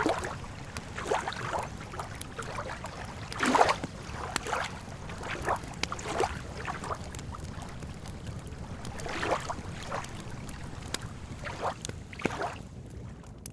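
Lake water lapping at the shore in irregular small splashes, about one every second or two. Sharp pops and crackles from a wood campfire are scattered through, over a low steady background noise.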